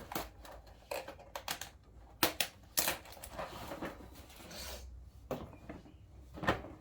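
Pieces of a box kit being handled and unpacked: a string of sharp clicks and knocks with rustling between them.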